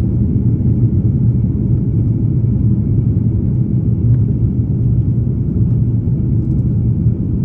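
Steady low rumble of cabin noise inside an Airbus A330neo airliner, even throughout.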